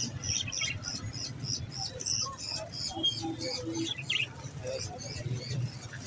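Small caged birds chirping: short high chirps repeating about three times a second, with one brief sweeping call about four seconds in, over a steady low hum of background noise.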